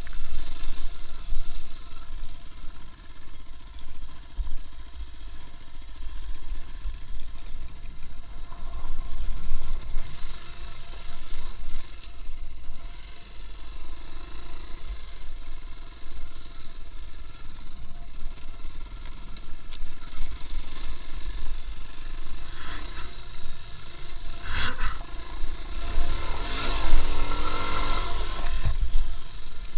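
A vehicle on the move: steady engine and road noise with a heavy low rumble. There is a louder, clattering stretch near the end.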